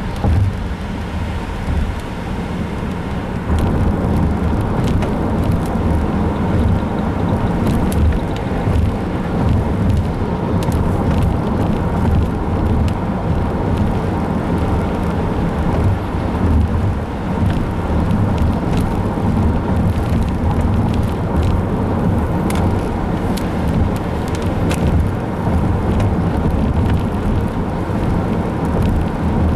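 Car driving: a steady low rumble of engine and road noise with scattered faint ticks, getting louder about three and a half seconds in.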